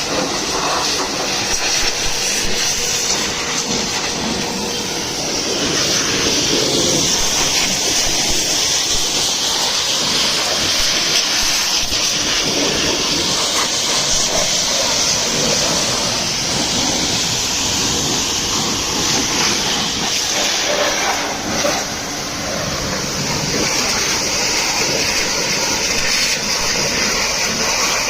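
High-pressure water jet spraying onto a truck, a steady loud hiss with small swells and dips in strength.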